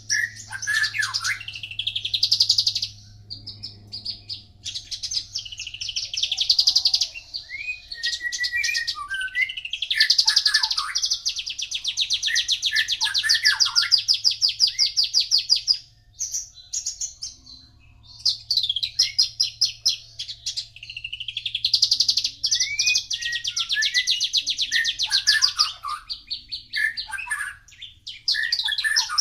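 Horsfield's bush lark (branjangan) singing: long phrases of rapid, high trilled notes mixed with varied lower swooping notes, broken by short pauses.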